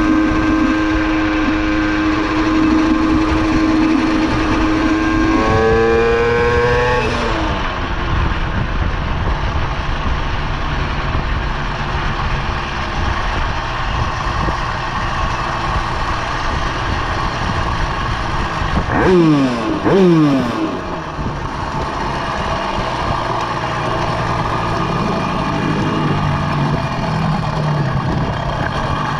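Minarelli vertical two-stroke engine on a motorized bicycle, running with a steady buzzing note. About six seconds in it revs up with a rising pitch, then falls back. Near two-thirds of the way through it gives two quick revs that fall away.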